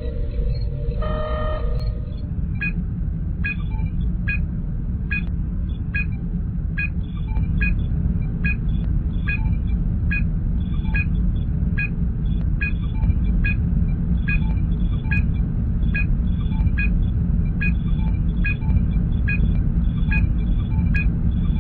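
Sci-fi starship bridge ambience from Star Trek: a steady low engine hum. From about two seconds in, a short electronic ping repeats evenly a little more than once a second, like a sensor scan.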